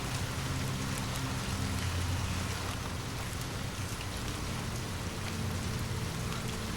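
Steady rain falling, an even hiss with scattered faint ticks of drops, over a low steady hum.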